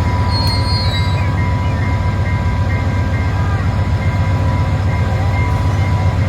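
Train passing at close range: a loud, steady low rumble, with a thin steady high tone running over it.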